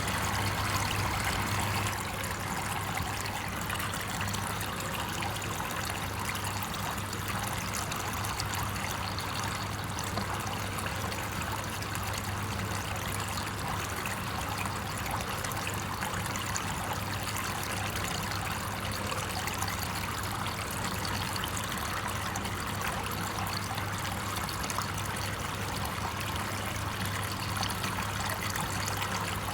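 Water flowing steadily, like a trickling stream, with a low steady hum underneath.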